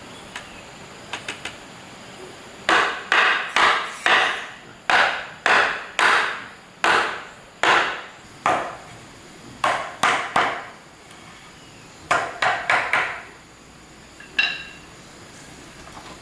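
Hammer striking wood in a run of sharp blows, about two a second, with a brief pause partway through. One last tap near the end rings with a clear pitch.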